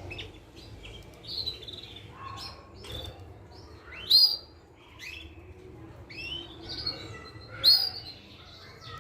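Young Portuguese Harlequin canary, about a month old, chirping: a string of short, high chirps and sliding notes, with two louder calls about four and nearly eight seconds in.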